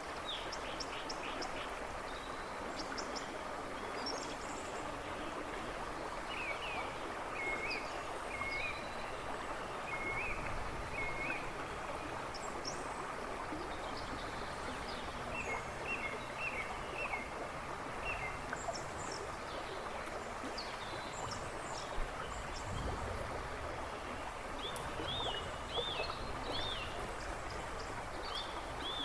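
A river rushing and babbling steadily. Songbirds sing in the background, in several bursts of short repeated whistled notes.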